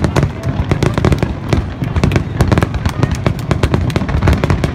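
Aerial fireworks bursting in quick succession: a dense crackling of many sharp pops over a continuous low rumble.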